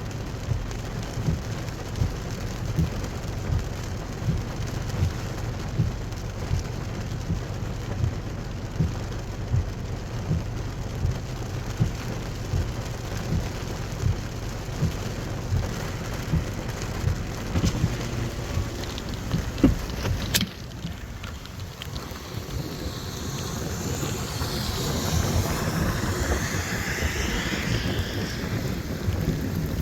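Heavy rain heard from a vehicle in a downpour, over a steady low rumble with regular low thumps about once a second. About two-thirds through, the sound changes abruptly and a hissing rush of water builds and grows louder.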